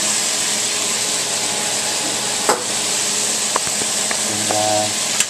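Flour-coated chicken pieces deep-frying in a pan of hot oil: a steady, loud sizzle, with a few sharp clicks along the way.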